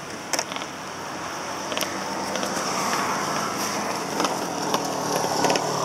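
Motorcycle engine running at idle, a steady noisy drone that grows slightly louder, with a few light clicks.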